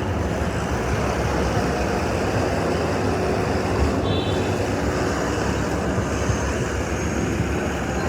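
Steady city street traffic noise: a constant rumble of passing vehicles, with a brief high squeak about four seconds in.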